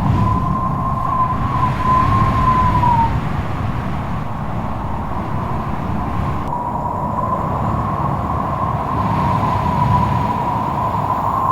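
Strong wind blowing hard: a low rushing rumble with a high whistling howl held near one pitch, which wavers slightly, fades out about three seconds in and returns a few seconds later.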